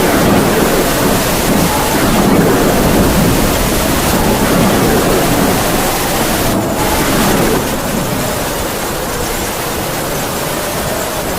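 Heavy rain falling in a steady downpour while wind howls, a thin whistling tone that slowly rises and falls in pitch over the rain.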